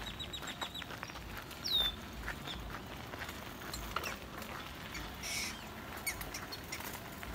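Wild birds calling over a faint outdoor background: scattered short chirps and ticks, a rapid run of ticks ending just after the start, one clear downward-sliding whistled note about two seconds in, and a rougher, rasping call a little after five seconds.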